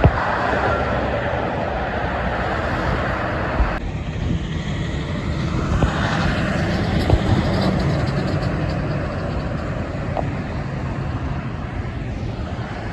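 Road traffic: vehicles driving past, with a steady rush of engine and tyre noise. The sound changes abruptly about four seconds in.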